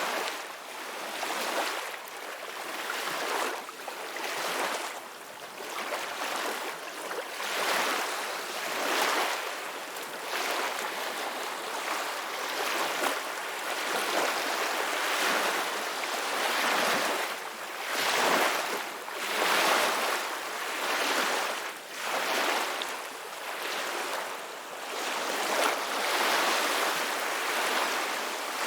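Ocean waves breaking and washing onto the shore, a steady hiss of surf that swells and eases every second or two.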